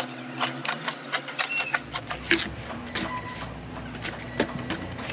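Scattered clicks, taps and knocks of boxes and packaging being handled during unboxing, with a brief high squeak about one and a half seconds in.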